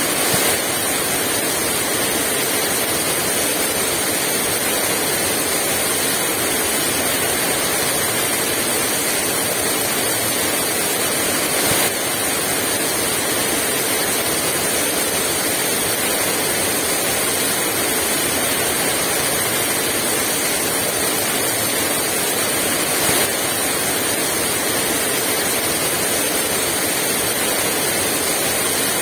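Heavy rain pouring steadily, a dense, even hiss with no wind.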